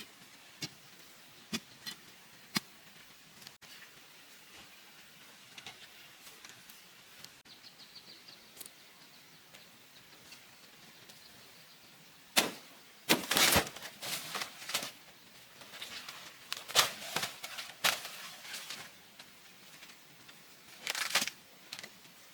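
A few light clicks, then about halfway through a series of loud, sharp knocks and short scraping rustles, as if something is being handled or worked.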